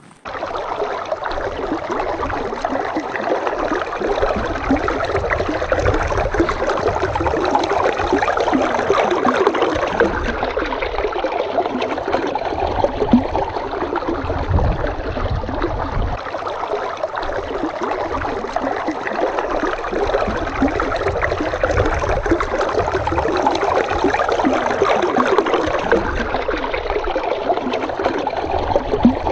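A babbling stream: a steady rush of flowing water with constant splashing and gurgling, and uneven low rumbles underneath.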